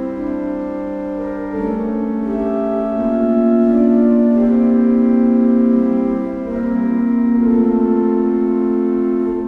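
Solo keyboard music: slow chords held at a steady level, changing every second or two, swelling slightly in the middle.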